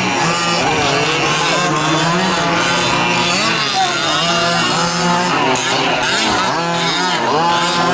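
Several 1/5-scale gas RC trucks' small two-stroke engines running at once, their pitches rising and falling as they rev up and back off around the track.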